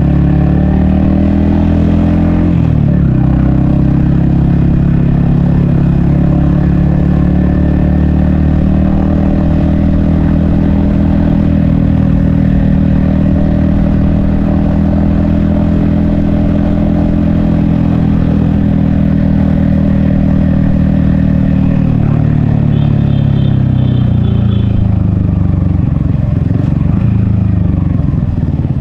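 Yamaha XSR155's 155 cc single-cylinder engine and exhaust under way, heard from the rider's helmet. The note holds steady at cruising speed, with a brief dip about two and a half seconds in, then falls away as the bike slows over the last several seconds.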